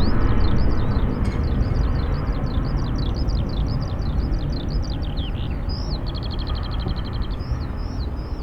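Jet airliner engine rumble slowly fading as a departing aircraft climbs away, with small birds chirping over it and a fast trill about six seconds in.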